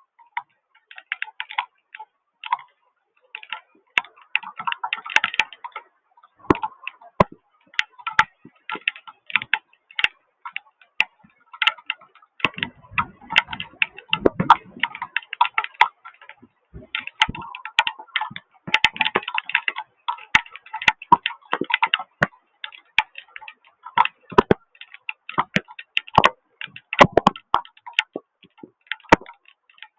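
Heavy rain striking a hard surface close to the microphone, heard as dense, irregular sharp ticks and clicks, several a second. A short low rush of noise comes about halfway through.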